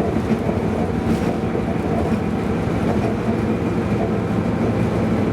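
Tram running along the track: a steady rumble of wheels on rails and running gear, with a faint steady hum.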